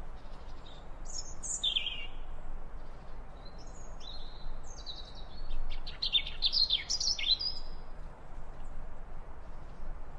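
Small birds chirping and trilling in short high calls, a couple of calls about a second in and a busier run of quick chirps in the middle, over a steady background hiss.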